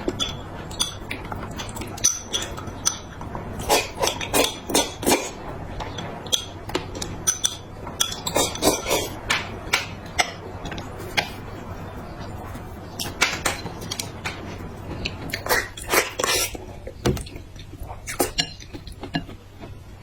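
Eating utensils tapping and clinking against bowls and plates in irregular clicks, with close-miked eating sounds between them.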